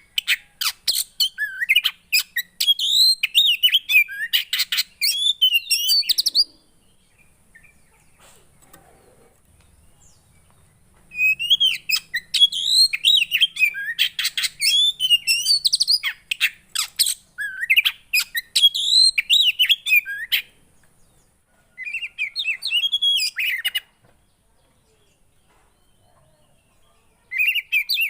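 Song of a poci songbird: fast, warbling bouts of high chirps and twittering trills, each several seconds long. The bouts run for about the first six seconds, again from about 11 to 20 seconds, briefly around 22 seconds and again near the end, with pauses between them.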